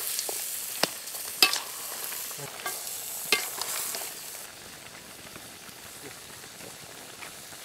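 Pork pieces and chopped tomatoes sizzling in a wide metal pan while a metal ladle stirs them, with a few sharp clacks and scrapes of the ladle against the pan in the first three and a half seconds. The sizzle eases off about halfway through.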